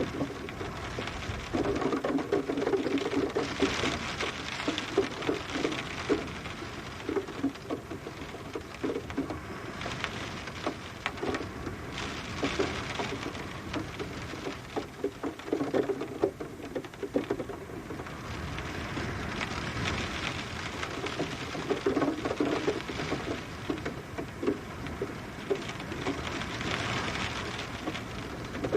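Rain falling, its drops pattering and tapping densely on a hard surface close by. It swells into heavier spells every few seconds.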